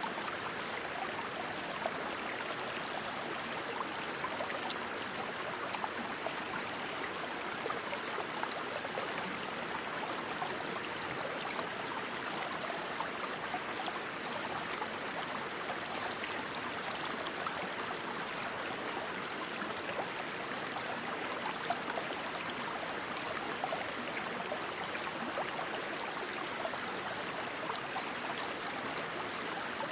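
Fast-flowing water rushing steadily, like a stream or small cascade. Short high-pitched chirps come and go over it, in places several in quick succession.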